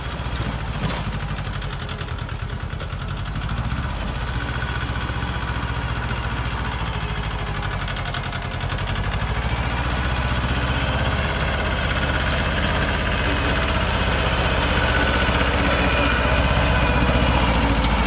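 Yanmar compact tractor's diesel engine running steadily while driving a PTO rear tiller through garden soil, growing somewhat louder about halfway through.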